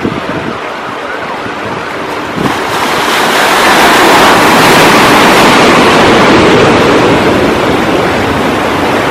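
Sea surf: a wave breaks about two and a half seconds in and its wash swells, then slowly fades, over a steady rush of water, with wind buffeting the microphone.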